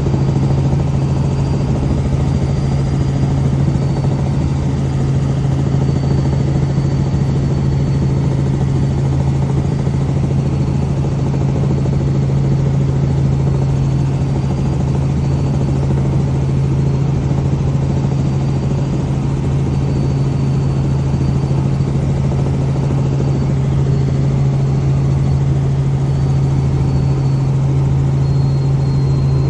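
Helicopter running in steady flight: a loud, even engine and rotor drone with a strong low hum and a faint high whine that comes and goes.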